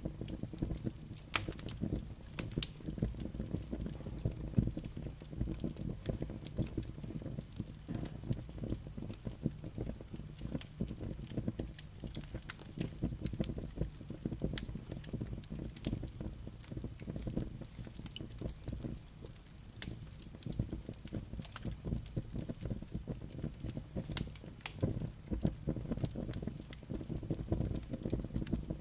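Wood fire burning in a fireplace: a steady low rumble of flames with frequent sharp crackles and pops from the burning logs and embers.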